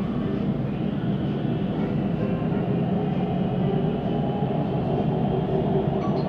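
Siemens Inspiro metro train running, heard from inside the carriage: a steady rolling rumble of wheels on the track, growing slightly louder.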